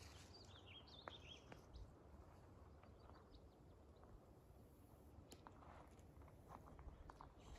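Near-silent outdoor ambience with a few faint bird chirps in the first second or so, and scattered soft clicks.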